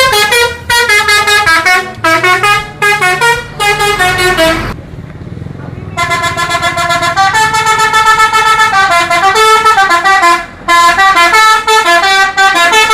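Multi-tone musical bus horn playing a stepped tune in short repeated phrases, with a pause of about a second roughly five seconds in where a low engine hum is left.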